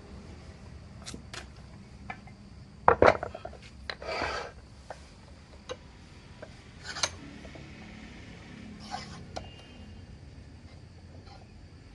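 Hand workshop work on steel: scattered metal clinks and taps, loudest in a quick cluster about three seconds in, with two short rasping scrapes, like a file or tool drawn across metal.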